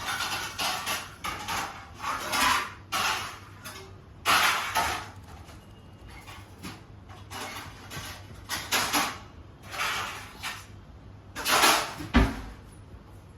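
Parrot giving a series of short, harsh, noisy squawks at irregular intervals, with a dull thump near the end.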